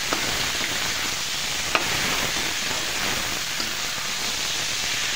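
Potatoes, peas and onions sizzling steadily as they fry in oil in a kadhai, stirred with a metal slotted spoon. The spoon clinks sharply against the pan twice, about a second and a half apart.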